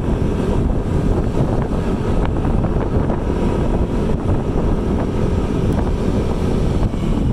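Heavy, steady wind rumble on the microphone over a running vehicle.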